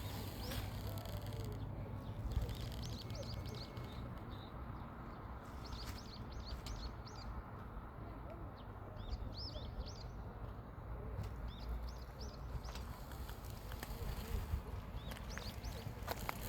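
Small songbirds chirping: many short, quick notes in clusters, over a steady low rumble.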